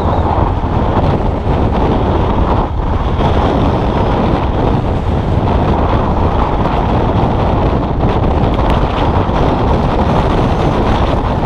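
Motorcycle engine running steadily during a ride, with wind buffeting the microphone.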